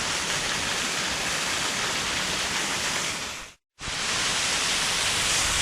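Waterfall rushing: a steady, even noise of falling water. About three and a half seconds in it fades out to a brief dead silence, then comes back at the same level.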